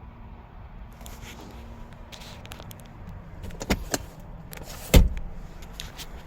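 A few short knocks and clunks over steady outdoor background noise, two of them louder, about three and a half and five seconds in.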